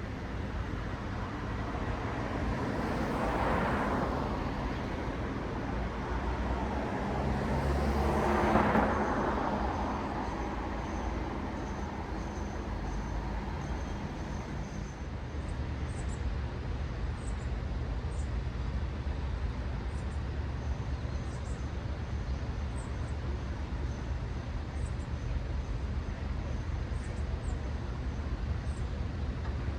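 Road traffic: two cars pass close by a few seconds apart, each swelling and fading, over a steady low rumble of traffic. From about halfway on, faint short high chirps come every second or so.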